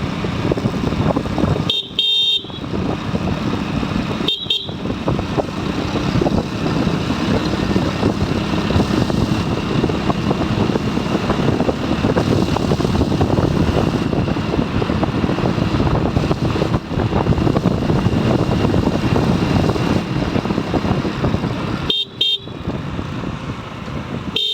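Motorcycle on the move, with steady engine, road and wind noise, and its horn sounding in short beeps: twice in the first few seconds and twice more near the end.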